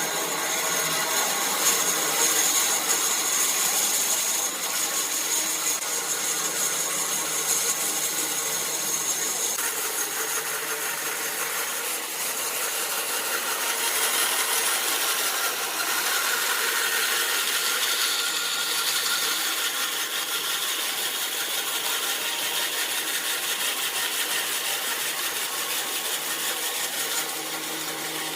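Woodturning lathe running, with a tool or abrasive rubbing against the spinning wood. The noise is steady, with a high whine over roughly the first third.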